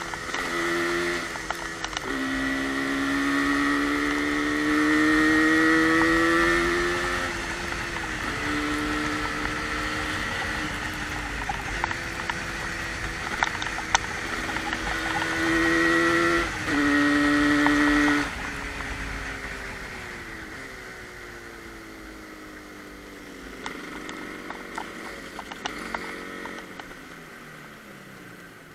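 Yamaha RD350's two-stroke parallel-twin engine accelerating through the gears, its pitch climbing in each gear and dropping at each shift. About two-thirds of the way in it rolls off and runs quieter at lower revs, with wind noise throughout.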